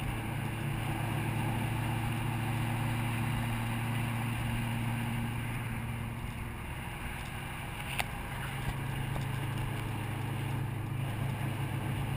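Fox-body Mustang's small-block V8 and exhaust running at a steady cruise, a low drone heard from inside the car that eases off slightly about two-thirds of the way through and then holds steady again.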